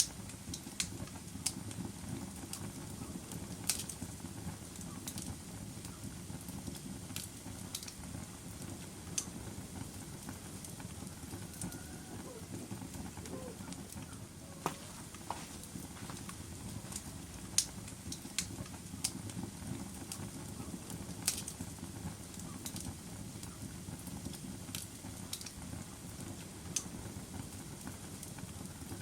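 Log fire crackling in a fireplace: irregular sharp pops and snaps, a few louder than the rest, over a steady low rumble of burning.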